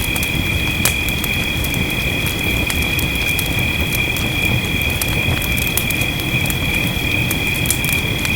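Fireplace crackling, with scattered sharp pops and snaps over a low rumble and a steady hiss of rain. A steady high-pitched two-note drone runs through it without a break.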